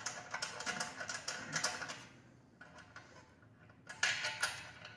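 Quick metallic clicking of a hand tool loosening the last 12 mm bolt on a motorcycle's stock exhaust for about two seconds. After a short pause comes a brief scraping rattle of metal parts being handled.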